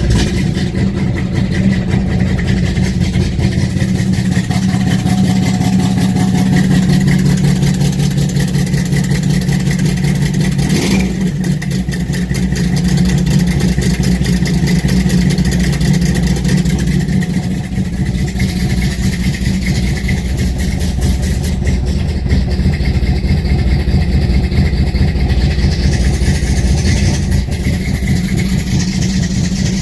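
Carbureted big-block V8 of a 1968 Dodge Charger R/T catching on a cold start and then idling steadily and loudly. There is a brief sharp sound about eleven seconds in.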